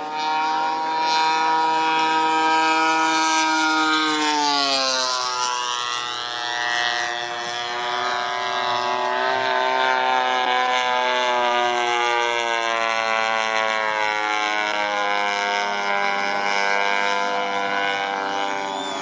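A giant-scale Ziroli P-47 RC model's DA-85 twin-cylinder gas engine running in flight. Its pitch drops sharply about four to five seconds in as the plane passes, then rises and falls again as it circles.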